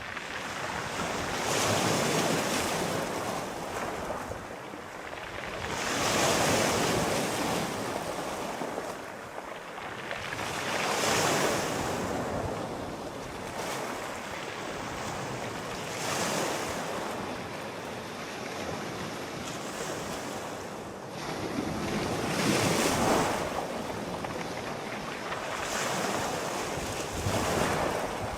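Sea waves breaking and washing in, one surge after another about every four to five seconds, each swelling up and falling away.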